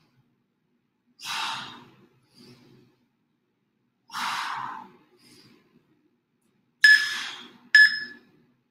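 Heavy breathing of a person doing push-ups: a forceful exhale about every three seconds. Near the end come three short, sharp beeps about a second apart, an interval timer's countdown to the rest break.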